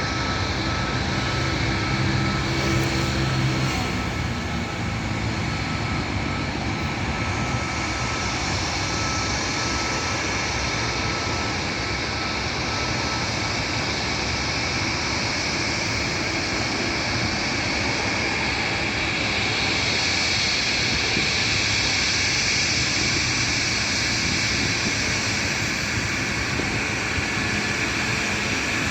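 Boeing 737 MAX 8 airliner's CFM LEAP-1B jet engines running: a steady engine rush with a thin high whine in the first half, growing a little louder later on.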